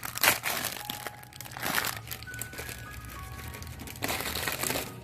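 Plastic wrapping crinkling in three bursts, the last and longest near the end, over quiet background music.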